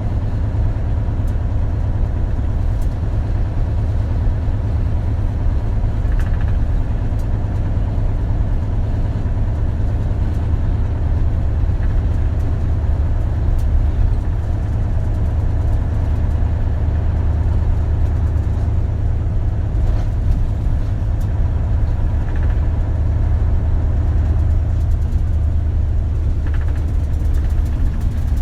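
Diesel engine of an Isuzu Erga (KL-LV280L1) city bus running, heard inside the passenger cabin as a steady low drone.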